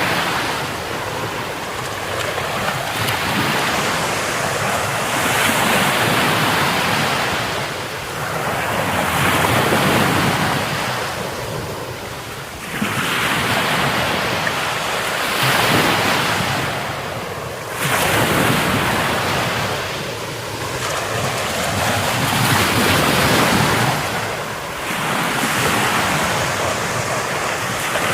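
Rough sea surf breaking on a beach, the wash swelling and falling away every few seconds.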